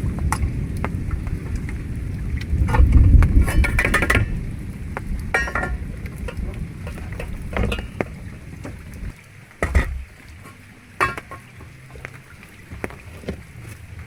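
Scattered clinks and taps of utensils against pots or dishes, over a low wind-and-rain rumble that dies down about two thirds of the way in.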